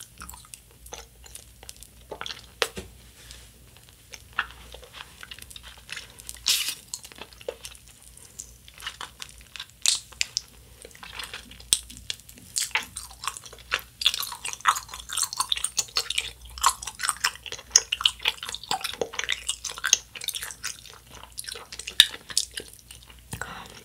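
Chewing a large burger-shaped gummy candy: a run of short mouth clicks and smacks, sparse at first and coming thick and fast in the second half.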